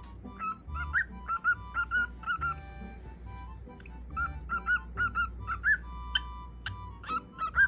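Cockatiel whistling a string of short, bright chirping notes, several a second, over music with held notes.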